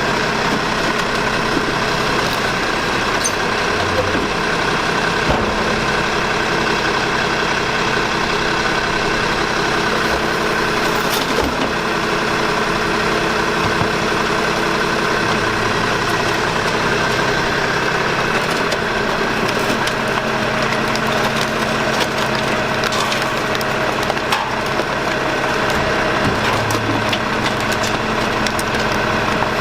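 Maxon MSL automated side-loader garbage truck running, its engine and hydraulics droning steadily, with scattered clunks and cracks of refuse being handled.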